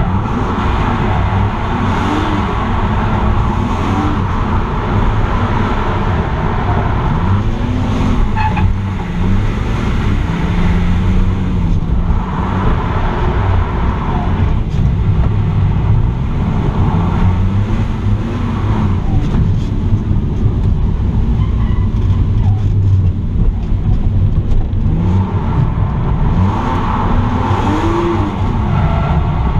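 BMW E46 M3's 3.2-litre S54 straight-six, heard from inside the cabin, revving up and down repeatedly through a run of drifts, with tyres squealing in stretches along the way.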